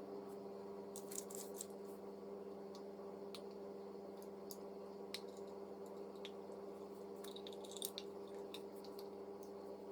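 Faint scattered clicks and taps of small die-cast and plastic model parts being handled during reassembly, over a steady electrical hum.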